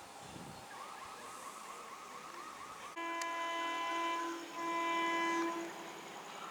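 Train horn sounding two long blasts of steady pitch, each a little over a second, with a short break between them. Faint repeated chirping can be heard before the horn.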